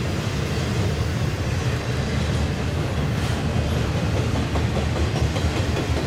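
Loaded double-stack intermodal well cars rolling past, their steel wheels on the rails making a steady, deep rolling noise.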